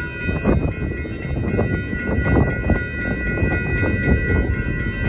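Amtrak passenger train passing close by: a heavy rumble of wheels on the rails, with a steady high whine held throughout and faint regular ticking.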